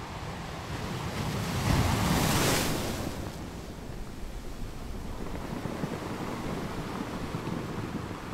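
Sea waves washing with wind buffeting the microphone; a loud surge of rushing noise peaks about two seconds in, then the steady wash of water and wind carries on.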